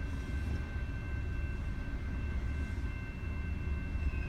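Long freight train of loaded coal cars rolling past: a steady low rumble with thin, steady high-pitched tones held over it.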